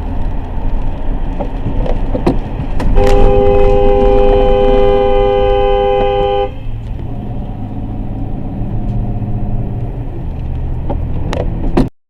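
Car horn held for about three and a half seconds, a steady chord of several tones over the constant rumble of a moving vehicle's road and engine noise. The sound cuts off abruptly near the end.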